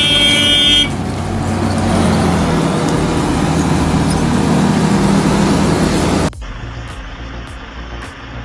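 A vehicle horn toots briefly at the start over loud, steady heavy-machinery engine noise. The noise runs on and then cuts off abruptly about six seconds in, giving way to a quieter low engine hum.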